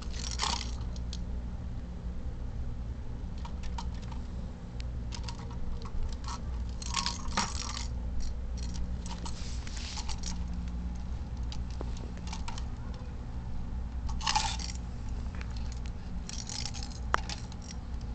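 A cat toy jingling and clattering in short, scattered bursts as kittens play with it, over a steady low hum.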